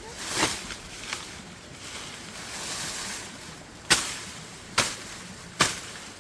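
A series of sharp knocks, strikes coming regularly about 0.8 s apart in the second half, over a faint steady hiss.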